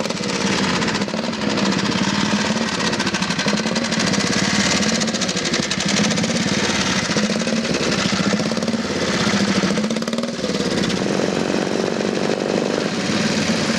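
Vintage motorcycle engine being run up, with a loud, rapid hammering exhaust beat whose pitch wavers a little as the throttle moves.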